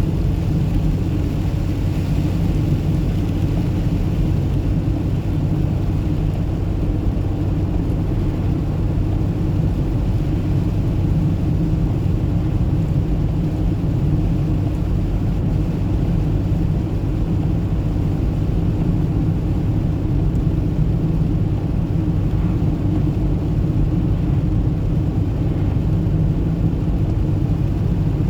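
Car driving at a steady pace: a constant low rumble of engine and tyres on the road.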